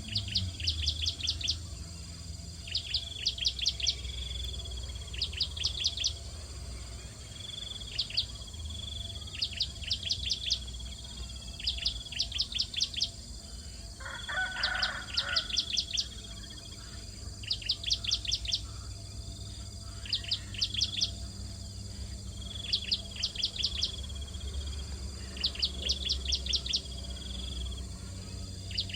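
Bar-winged prinia (ciblek) repeating a short call about every two seconds: a brief high note followed by a quick run of sharp, high notes. A steady low hum runs underneath, and a brief, rougher, lower sound comes about halfway through.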